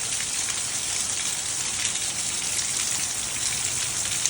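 Heavy rain pouring down, a steady dense hiss of drops hitting the ground.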